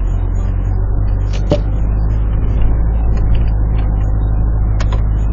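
A four-wheel-drive vehicle's engine runs steadily in low-range third gear as it drives up a snowy trail on studded snow tires. There are a few sharp knocks or clicks, one about one and a half seconds in and two close together near the end.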